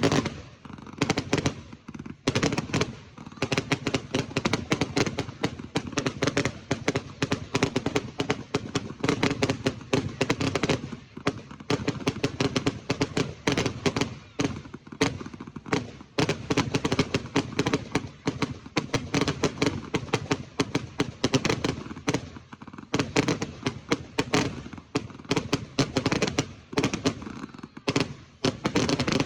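Fireworks going off in rapid, continuous crackling and banging, dense overlapping cracks with louder bangs scattered throughout.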